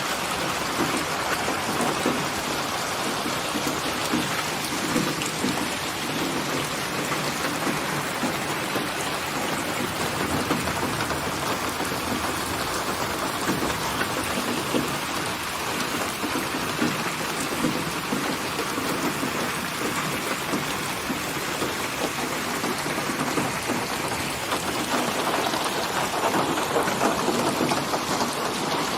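Steady rain falling, an even hiss with a fine patter of drops, swelling slightly near the end.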